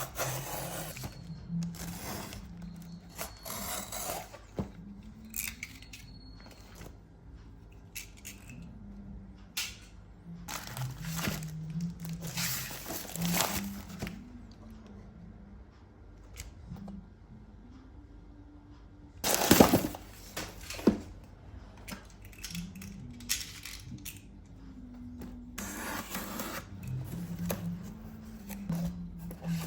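Packaging of a toy remote-control car being handled and opened: bursts of rustling, crinkling and tearing, loudest about 20 seconds in. Faint background music plays underneath.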